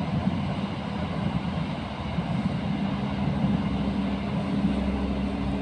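Passenger train running past and into a tunnel: a continuous rumble of wheels on rail with a steady low hum that grows stronger in the second half.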